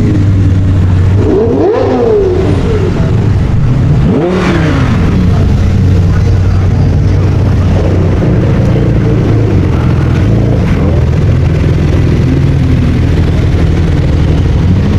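A car engine revved twice in short blips, the pitch rising and falling back each time, over a steady low rumble of idling engines.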